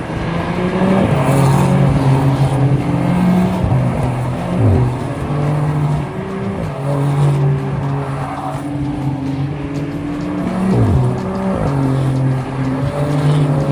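Race car engines running hard on a circuit, holding a high pitch and then dropping as cars pass by, twice.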